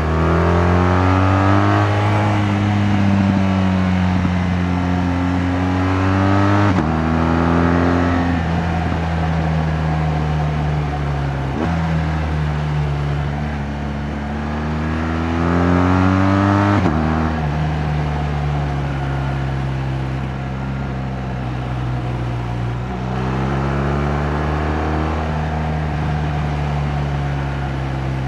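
BMW R 1200 GS Adventure's boxer-twin engine under way, pulling up through the gears: the engine note climbs, then drops suddenly at each of three upshifts. It holds steady for a while and climbs again near the end.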